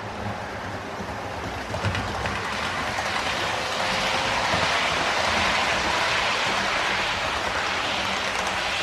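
Model Class 68 locomotive hauling a Mark 5 coach set around the layout track, a steady rolling rumble of wheels and motor that grows louder from about two seconds in as the train comes closer. The locomotive is new and is being run in.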